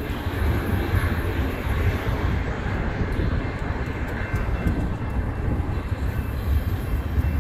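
Double-stack intermodal well cars of a freight train rolling past: a steady low rumble of steel wheels on rail.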